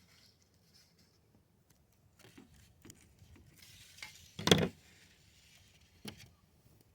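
Scissors or shears cutting through a duck's leg joints, with quiet rubbing and handling of the carcass. There is one loud, sharp crunch about four and a half seconds in and a smaller click about six seconds in.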